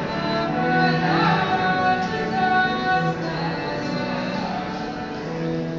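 Solo cello playing a slow melody of held, bowed notes, one after another.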